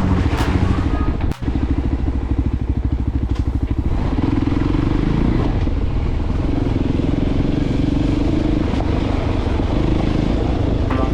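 Voge 300 Rally's single-cylinder engine running as the bike is ridden, a fast low throb. The sound cuts out for an instant about a second and a half in, and the engine note steadies from about four seconds.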